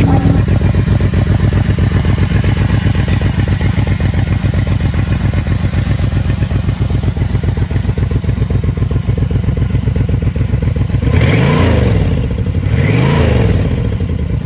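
Yamaha Royal Star 1300's V4 engine idling steadily, then blipped twice near the end, the revs rising and falling quickly each time.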